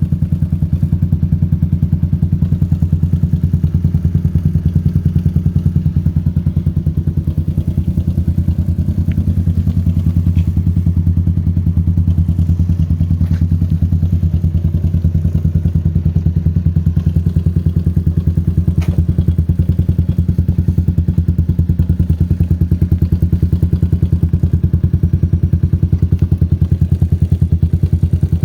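Yamaha Crypton X 135's single-cylinder four-stroke engine idling steadily through a Trioval TRC High Up full aftermarket exhaust system, a low, even pulsing exhaust note with no revving. A few faint clicks are heard over it.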